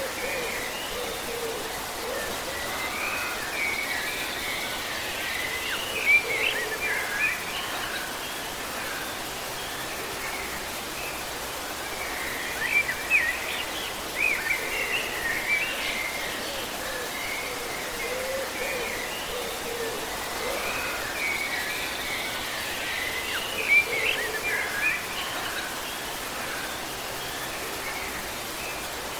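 Birds chirping in bursts of short calls every several seconds, over a steady hiss of rain.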